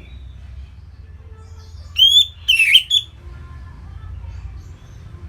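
Orange-headed thrush singing one short, loud phrase of whistled, gliding notes about two seconds in, over a faint low hum.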